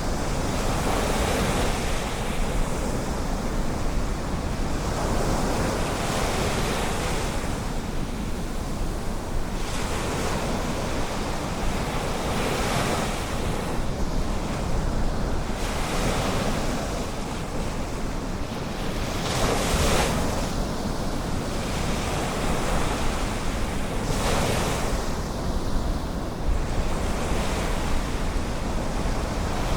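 Ocean surf on a beach, each wave washing in with a swell of hiss every few seconds, over a steady low rumble of wind on the microphone.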